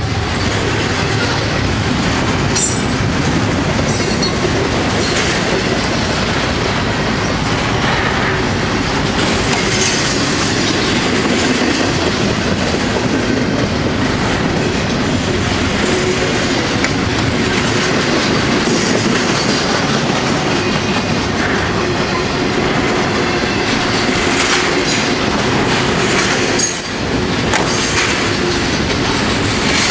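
Freight train cars rolling past at a grade crossing with a steady rumble, the wheels clacking over the rail joints. Brief high wheel squeals come now and then, the strongest near the end.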